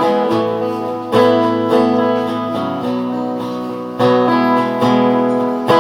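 Guitar strumming chords in an instrumental break of a live pop song, with fresh chord strikes about a second in, near four seconds and near the end, and no singing.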